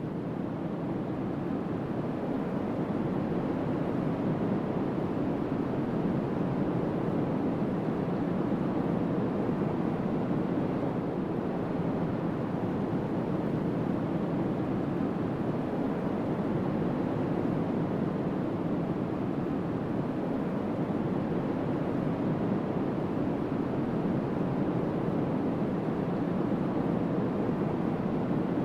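Strong wind blowing across open water, a steady rushing noise without let-up.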